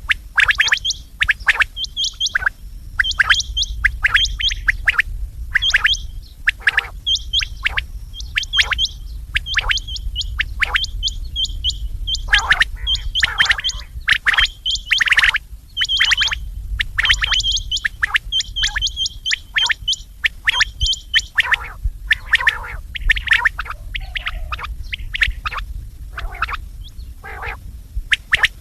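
Quail calling over and over in quick runs of short, sharp, high chirping notes, with a steady low hum underneath.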